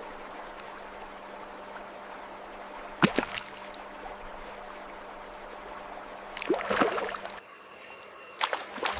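Steady rush of flowing water, broken by short sharp noises: one loud one about three seconds in, a cluster a little after six seconds, and two more near the end.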